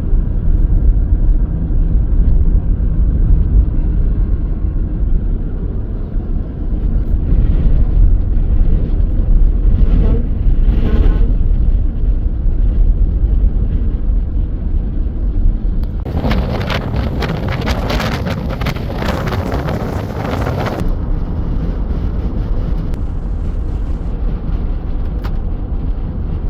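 Strong wind buffeting the microphone with a heavy, steady rumble. For about five seconds past the middle a harsher, hissing gust comes through, then it settles back to the rumble.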